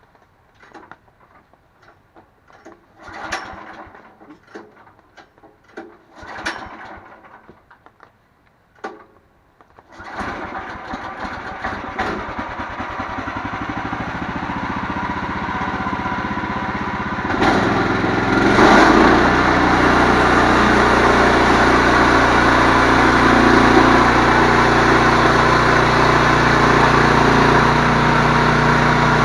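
A few scattered knocks and clicks, then a cold diesel engine, likely the Case 430 tractor's, cranking on the starter for about seven seconds. It catches about seventeen seconds in, runs loudest for a moment, then settles into a steady run.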